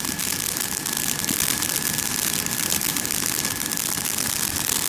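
Vehicle engine idling steadily, with a constant hiss of background noise.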